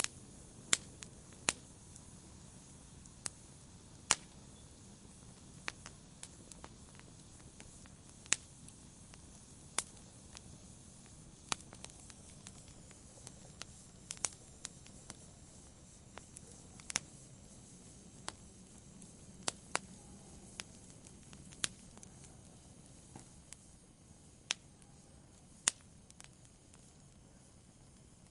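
Wood fire in a fireplace crackling: sharp, irregular pops and snaps every second or two over a soft, steady hiss of burning.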